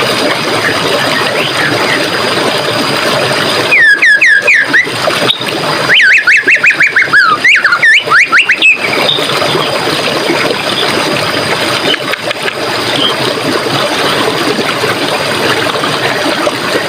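Stream water running steadily, with a bird calling loudly in two quick series of repeated falling notes, about four seconds in and again from about six to nine seconds.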